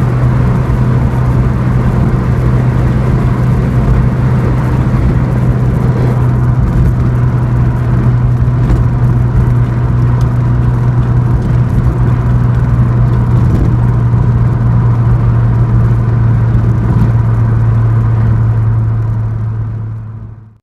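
Ford Escort RS Turbo's new turbocharged 1.6 CVH engine, still being run in, droning at steady cruising revs while driving. The sound fades out near the end.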